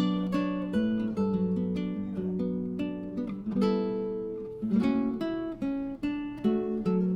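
Background music: an acoustic guitar playing a melody of plucked notes, each ringing out and fading.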